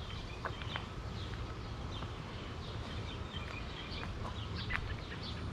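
Small birds chirping outdoors: short high calls scattered through, with a few faint clicks over a steady low background rumble.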